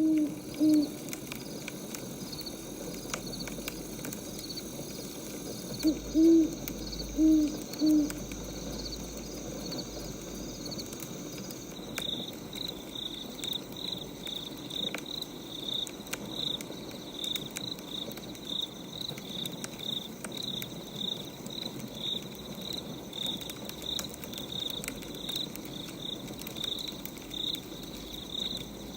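Nighttime nature ambience: an owl hoots in short groups of two or three notes at the start and again about six seconds in. About twelve seconds in a cricket starts chirping steadily, over faint crackling of a wood fire.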